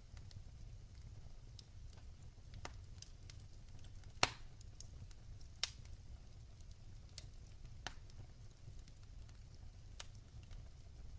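Wood fire crackling in a fireplace: scattered sharp pops and clicks over a low steady rumble, the loudest pop about four seconds in.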